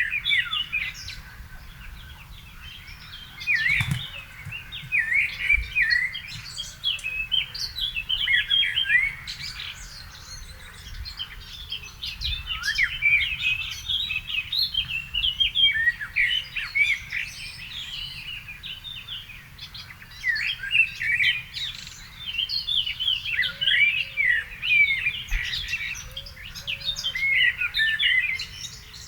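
Songbirds singing in a garden: a dense run of quick chirps and warbling phrases, broken by short lulls, over a faint low rumble. A single sharp click sounds about four seconds in.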